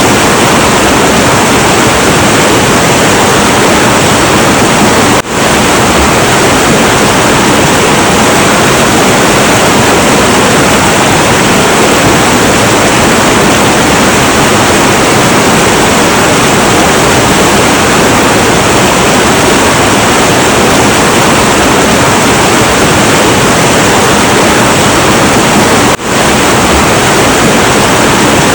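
Heavy, turbulent river flow: a steady, loud rush of water that dips for an instant twice, about five seconds in and near the end.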